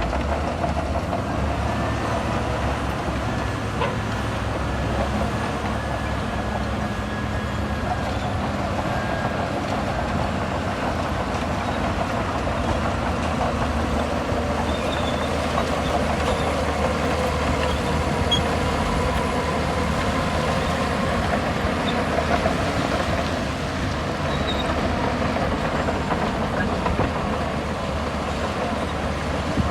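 Bulldozer's diesel engine running steadily under load, with the continuous clatter of its steel crawler tracks.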